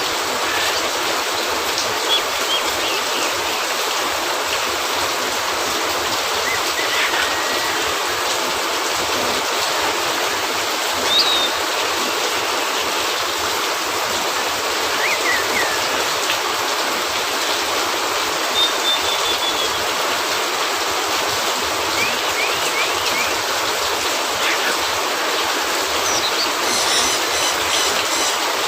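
Steady rain hiss, even and unbroken, with a few faint short high chirps over it and a quick run of repeated high chirps near the end.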